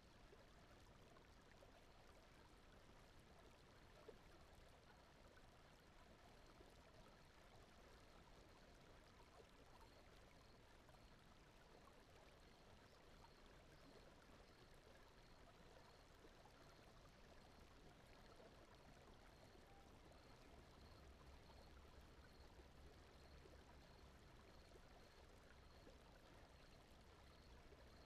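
Faint, steady flowing-water ambience like a gentle stream, over an even bed of noise.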